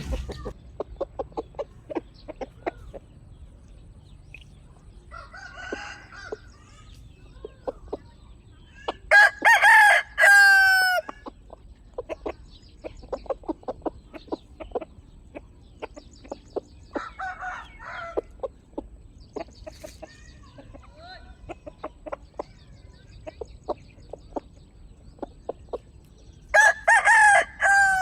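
Rooster crowing twice, a loud multi-part crow ending on a falling note, about nine seconds in and again near the end. In between, chickens give many short clucks and a few brief calls.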